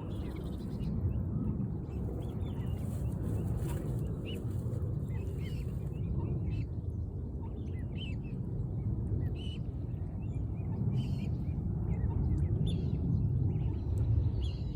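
Birds chirping: many short, high chirps scattered throughout, over a steady low outdoor rumble.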